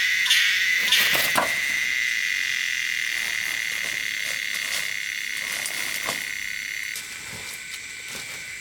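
Steady, high-pitched chorus of calling frogs and insects that slowly grows fainter, with a couple of faint knocks.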